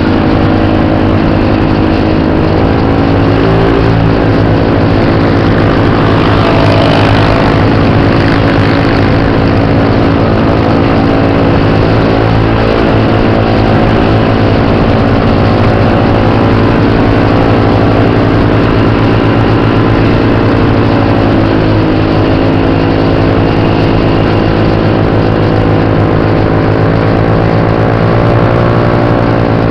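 Motor scooter engine running at speed with near-constant revs, its pitch dipping slightly a couple of times, over steady wind and road noise.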